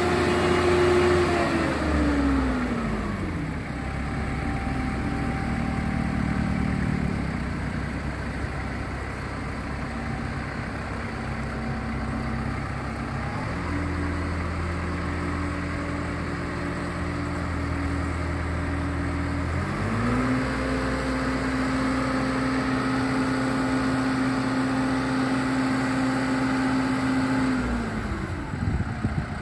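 An engine running with its revs changing: it drops from a high speed early on, picks up again twice, and drops away near the end.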